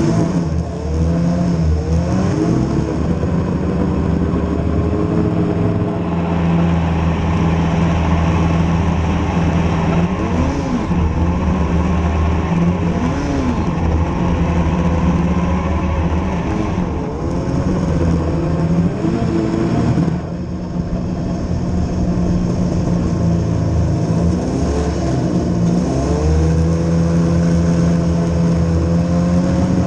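Vehicle engine running under way, its pitch rising and falling as the throttle is worked, over a steady low drone. It eases off briefly about two-thirds of the way through.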